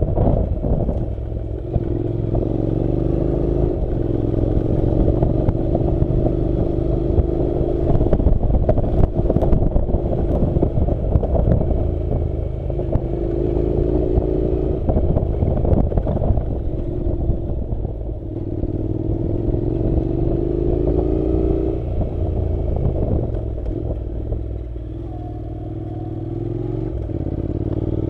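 Honda NC700's parallel-twin engine running on a rough dirt road, its pitch rising as it pulls several times, with a steady clatter from the track.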